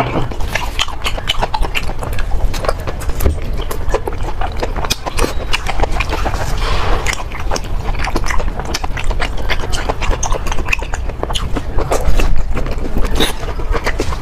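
Close-miked chewing of braised pig intestines: wet smacking mouth sounds with many irregular crisp clicks, the intestines chewy and crunchy.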